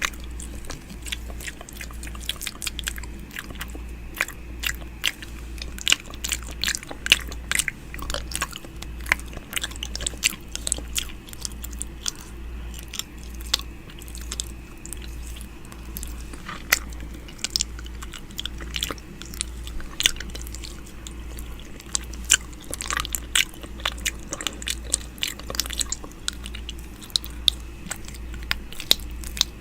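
ASMR 'ear eating' mouth sounds close to the microphone: irregular wet clicks, smacks and nibbling sounds, with a low hum pulsing about once a second underneath.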